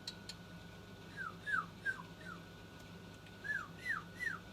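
Young bird chirping while being hand-fed mealworms: two runs of short, high, downward-sliding peeps, four and then three.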